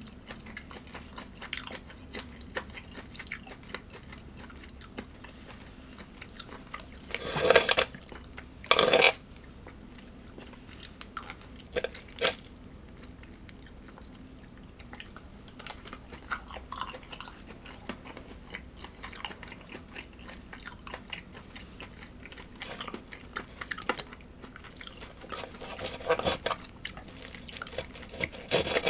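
A person chewing and biting food close to the microphone, with irregular small crunches throughout and two louder bursts about seven and nine seconds in.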